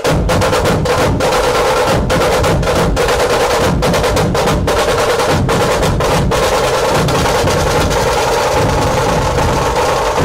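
Loud, dense drumming with music, a fast unbroken beat that starts abruptly.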